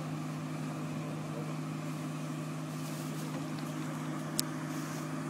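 An engine or motor running at a steady hum, with one sharp click about four seconds in.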